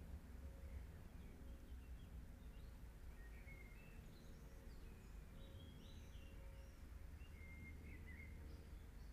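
Faint birdsong: scattered short chirps and warbles from small birds, over a low steady hum and hiss.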